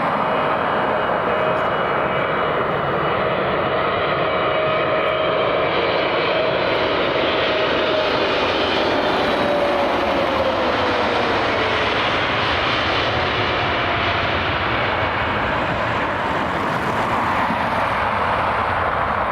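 Airliner engines running loud and steady as the plane passes close by, with a thin whine that slides down in pitch about halfway through.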